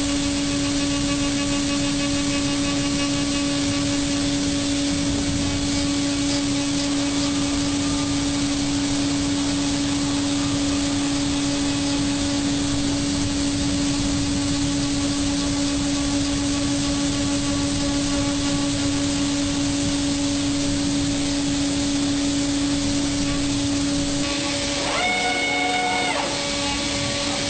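A machine running steadily with a constant droning hum and hiss. Near the end a short pitched tone, like a horn or whistle, sounds for about two seconds.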